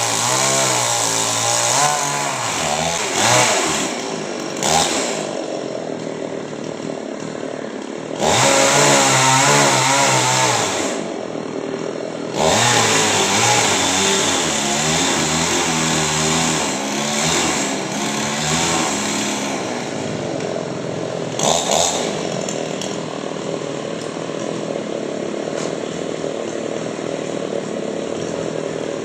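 Chainsaw running continuously while cutting a coconut palm. Its pitch wavers with load, and it revs up loudly at the start, again about eight seconds in and about twelve seconds in, settling lower between.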